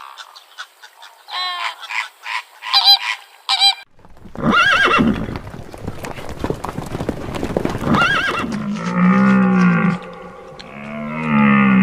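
A series of animal calls: short high-pitched calls for about four seconds, then an abrupt change to a noisier background with a few calls, and near the end two long, low calls.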